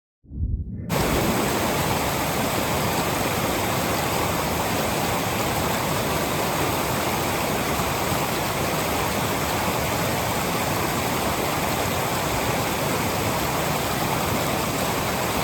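Rushing water from a mountain creek or waterfall: a steady, unbroken roar that cuts in suddenly at the start.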